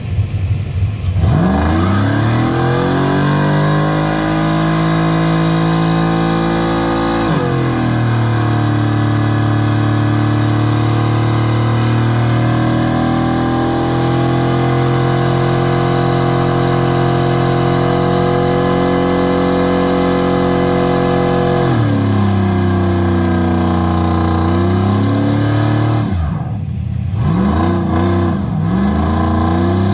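Truck engine revved hard about a second in and held at high, steady revs for a burnout, with short dips twice. Near the end it drops and is blipped up and down a few times.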